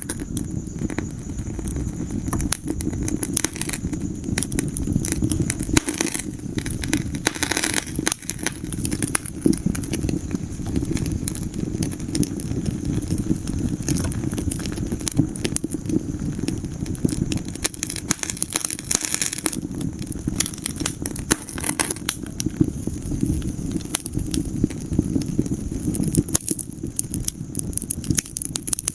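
Wood fire crackling and popping in a fireplace: dense irregular snaps over a steady low rumble of flames.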